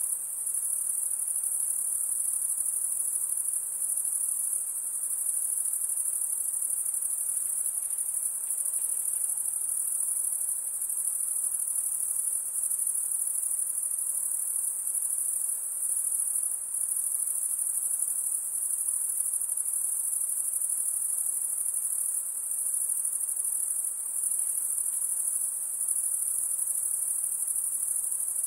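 A dense, steady chorus of high-pitched insect calls, an unbroken shrill trill with no pauses.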